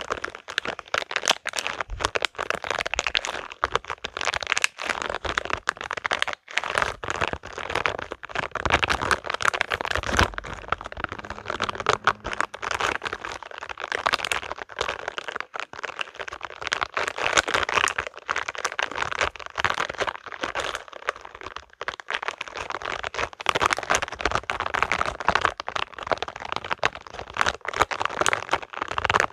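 Spiky rubber balls handled close to the microphone, squeezed and rubbed between the hands, giving a dense, continuous run of small clicks and crackles.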